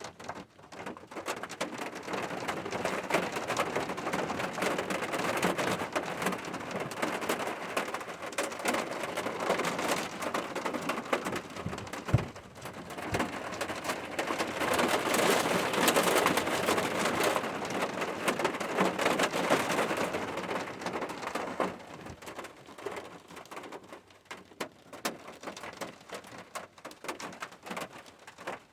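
Rain falling and pattering on a surface, building after the start to its heaviest about halfway through, then easing off toward the end.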